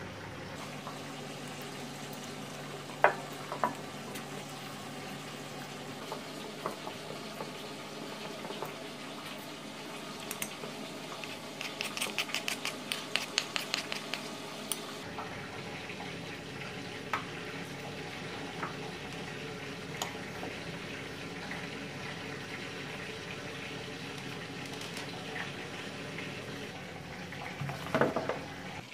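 Food sizzling steadily in a pan, with occasional clicks of a utensil against cookware, a quick rapid clatter for a few seconds in the middle, and a louder clatter near the end.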